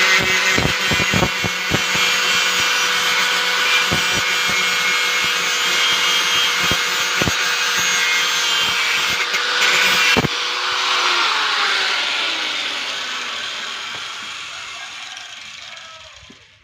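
Electric angle grinder running, with scattered knocks and clicks, then switched off about ten seconds in. Its whine slides down in pitch and fades as the disc spins down over about six seconds.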